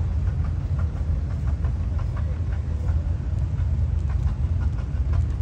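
A tractor engine running steadily: a low rumble with light clicking over it.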